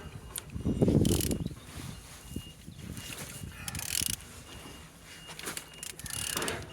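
A YT60PXS engine being turned over by hand, making mechanical clicking and ratcheting sounds, with a louder low rumble about a second in and short bursts of clicks later on. The engine turns freely.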